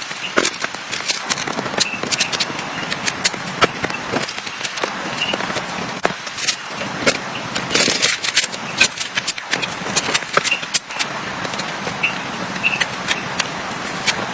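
Heavy rain falling steadily, with many sharp irregular taps and crackles over the rain's hiss.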